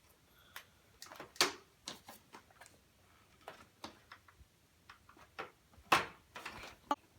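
Scattered light clicks and knocks of toy tractor parts being handled, with a louder knock about a second and a half in and another near the end.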